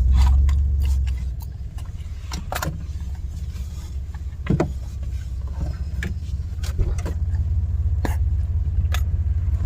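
Low, steady rumble of a truck's engine and road noise heard inside the cab as it parks, louder for about the first second, with a scattering of small clicks and knocks.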